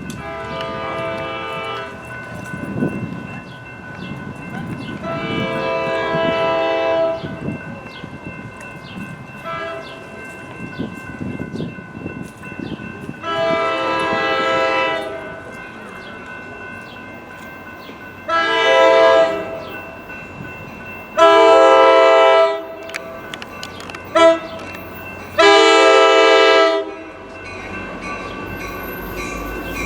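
A train's multi-chime air horn sounds a series of blasts over the rumble of the train. The last four form the grade-crossing signal: two long, one short, one long.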